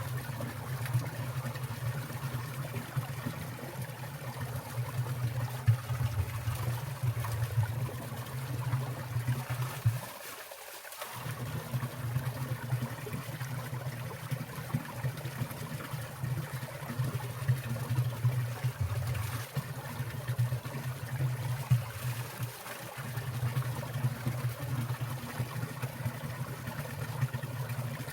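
Water trickling and dripping from icicles into a winter valley stream, with frequent small splashes over a steady low rumble.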